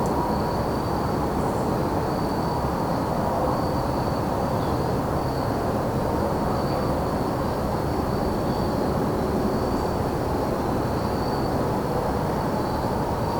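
Crickets chirping in one continuous high trill that swells and fades slightly, over a louder, constant low rumble of background noise.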